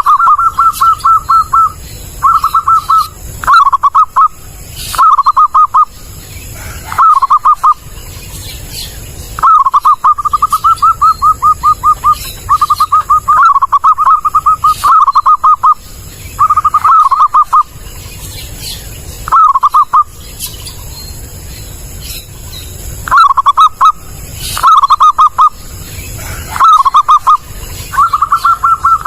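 Zebra dove (perkutut) singing loud, clear phrases of rapid stuttering coos, repeated with short pauses between them.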